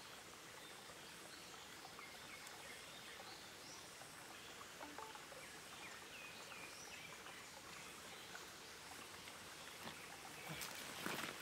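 Mountain valley stream flowing, a faint steady rush of water, with a few faint bird chirps over it. A few louder clicks come near the end.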